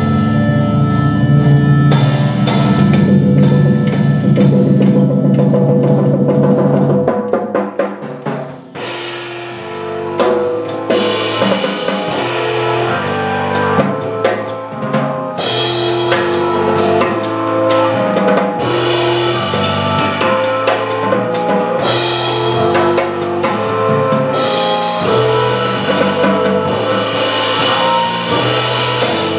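Live jazz organ trio music with organ and drum kit. A low chord is held for about seven seconds and fades briefly, then the band comes back in with a stepping bass line under chords and drum hits.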